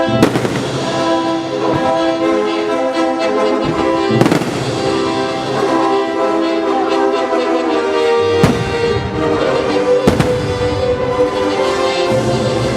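Orchestral music with brass plays throughout, while fireworks burst with sharp bangs a few times, about four seconds apart.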